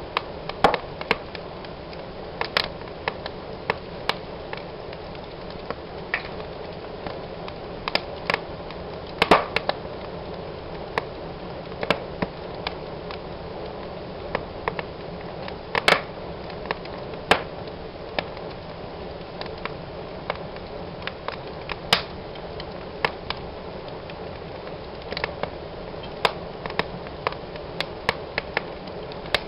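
Wood fire burning in a fireplace: irregular sharp crackles and pops over a steady hiss of the flames.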